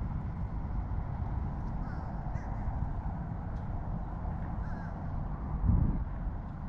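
Birds calling in the background over a steady low rumble, with a dull thump near the end.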